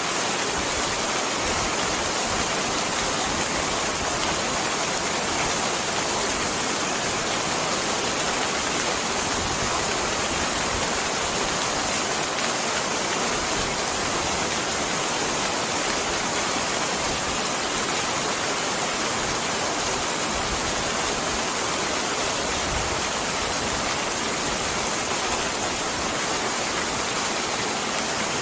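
Steady rain, an even unbroken hiss with no change in level.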